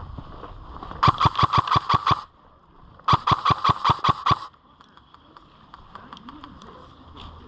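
An airsoft rifle firing two quick bursts of about nine shots each, at roughly eight shots a second, the bursts about a second apart. A few faint ticks follow.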